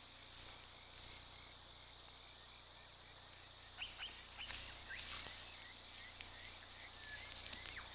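Faint night-time bush ambience: a steady high insect-like drone with a run of short repeated chirps, and a few brief rustles around the middle.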